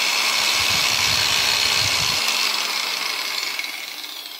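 Angle grinder running at full speed off a roughly 78 kHz high-frequency supply instead of 50 Hz mains, with a steady high whine and hiss. It winds down from about three seconds in.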